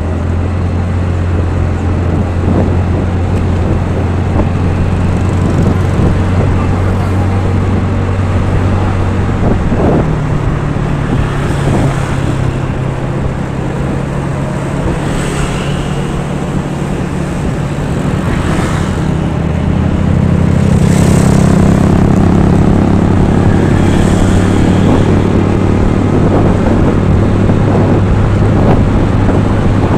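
A motor vehicle's engine running steadily, close by, with traffic noise; its engine note shifts to a new speed about ten seconds in and again about twenty seconds in. Several other vehicles go by in between.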